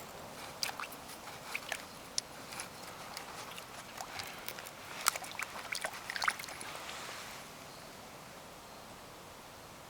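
Footsteps crunching over rocks and gravel in a creek bed: irregular clicks and crunches that die away after about seven seconds.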